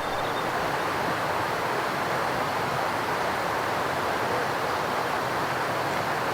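Stream water rushing steadily, an even hiss with no pitch or rhythm.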